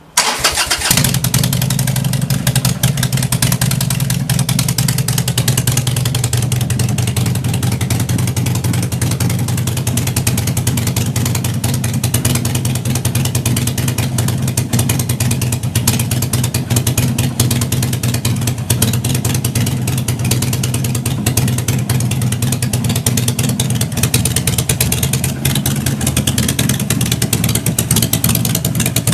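Harley-Davidson Sportster Forty-Eight's air-cooled 1200 cc V-twin starting up and then idling steadily with its lumpy, uneven beat; the idle settles slightly lower after about six seconds.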